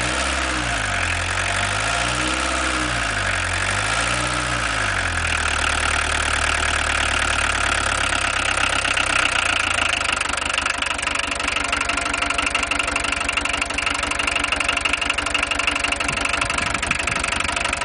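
VW 1.6 turbodiesel engine running. It is revved up and back down three times in the first five seconds, then settles to idle with a rapid, even clatter, a knock the owner thinks may be too loud.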